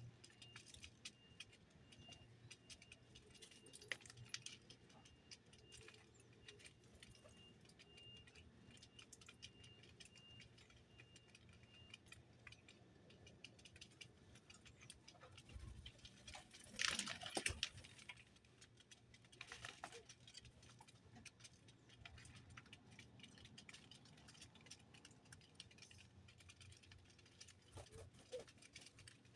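Faint scattered small clicks and rattles, with a soft high note repeating about twice a second for the first twelve seconds and a louder brief rustle about seventeen seconds in.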